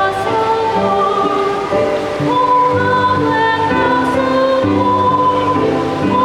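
Children's choir singing a Christmas carol in long held notes, several parts sounding together.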